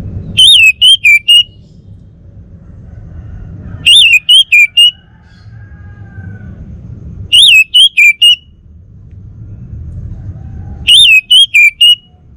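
Male orange-headed thrush (anis merah) singing a short loud whistled phrase of four notes, a falling first note then three quick shorter ones. The identical phrase repeats four times, about every three and a half seconds.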